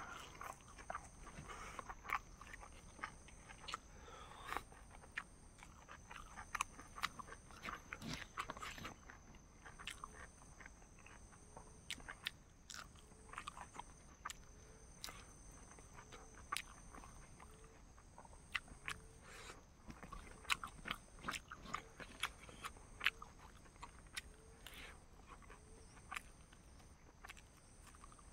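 Close-up eating sounds of a person chewing chicken and rice: irregular mouth clicks and smacks throughout.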